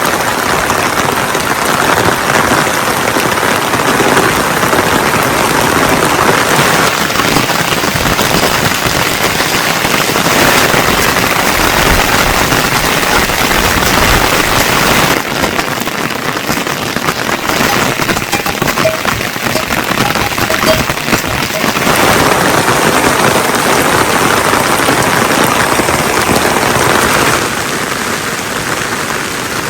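Heavy rain pouring steadily, a little lighter for several seconds in the middle.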